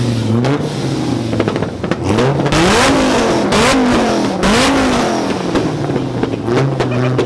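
A performance car engine is revved hard over and over, its pitch climbing and dropping about half a dozen times. Sharp, loud exhaust pops come through the middle of the revving.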